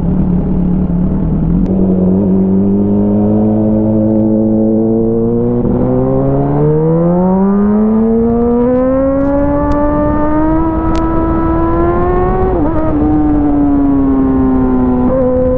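Motorcycle engine through an aftermarket Avionic exhaust, running steadily, then rising in pitch as it accelerates for a few seconds. There is a short sharp drop in pitch about twelve seconds in, after which it holds steady and eases slightly.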